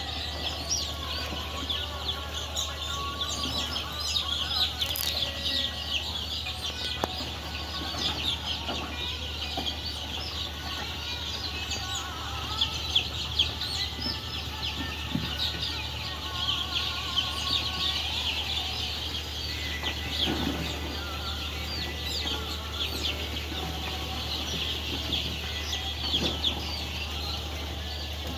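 A large flock of layer chickens calling and clucking together in a dense, continuous chatter of many short, high calls, over a steady low hum.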